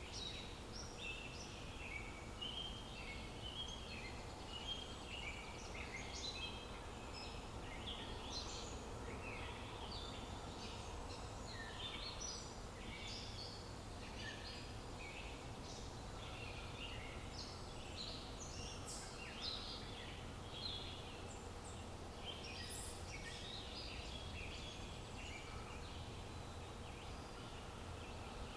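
Many birds chirping in a busy, overlapping chorus of short high calls, over a steady low outdoor background hiss.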